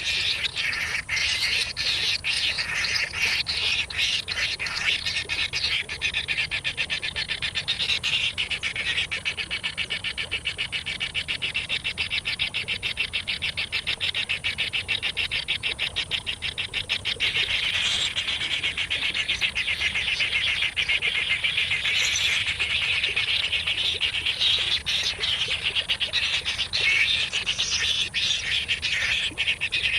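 Baby birds begging for food: a dense, continuous chorus of rapid high-pitched chirps.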